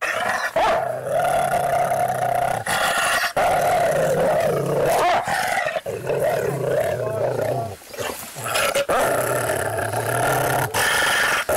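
Dog growling in a long, wavering snarl that starts abruptly out of silence, with a few brief breaks.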